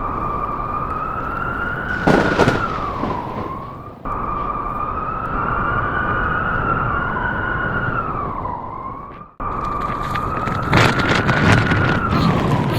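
Wolf howling in long, wavering calls, each sliding down in pitch at its end, over loud blizzard wind noise. The sound cuts off abruptly twice and restarts, and there are louder noisy gusts near the start and toward the end.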